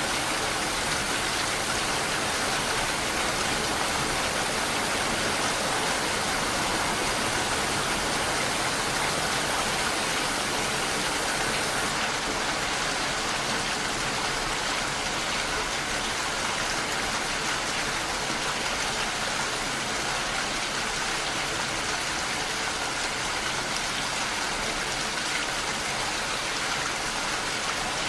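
Steady rain falling, a continuous even hiss of many drops with no single drops standing out.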